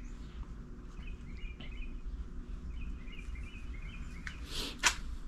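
Birds chirping faintly in the background over a low steady hum, with one short sharp sound near the end.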